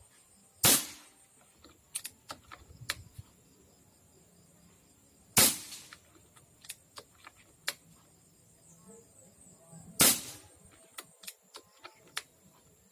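Air rifle firing three shots about four and a half seconds apart while a new 20-round magazine is tested for slips and jams. Lighter clicks of the action being cycled come between the shots.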